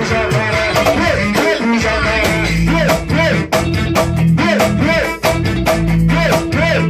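A band playing an instrumental passage: a repeating melodic lead line over held bass notes and busy percussion.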